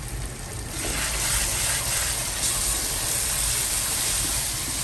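Thick curry masala paste sizzling in a pan over a high flame as it is stirred with a wooden spatula, the sizzle growing louder about a second in.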